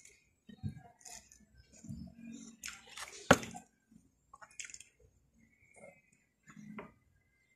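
A person chewing food close to the microphone, with soft wet mouth sounds coming in short irregular spells. There is one sharp click a little over three seconds in.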